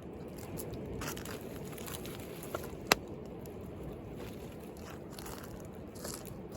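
Wood fire crackling, with scattered small snaps and one sharp, loud pop about three seconds in, over a steady rumble of sea waves.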